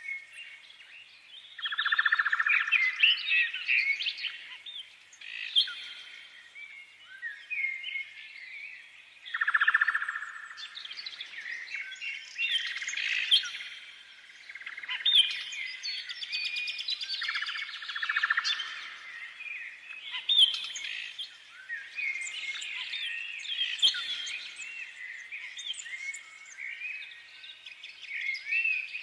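Small songbirds chirping and singing together, with many quick overlapping chirps and short gliding notes throughout. The song swells into louder, fuller bursts about two seconds in, around ten seconds and again around eighteen seconds.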